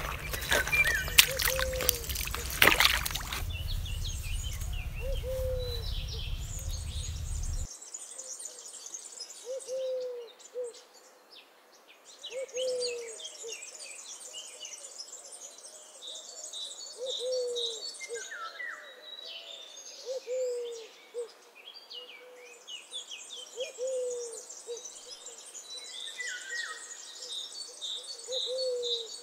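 A bird calls with a short, low, falling hoot every two to three seconds, while smaller birds chirp and twitter higher up. For the first several seconds a loud rumbling noise with a few sharp knocks lies over it and then cuts off.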